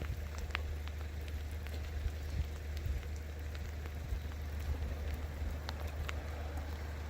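Light rain pattering, scattered small ticks over a steady low rumble.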